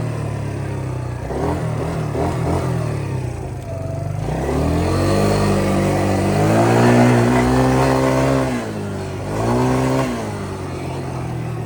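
Small off-road vehicle engine running, then revving up: its pitch climbs about four seconds in and holds high for several seconds, falls back, revs briefly again near the end, and settles to a steady lower run.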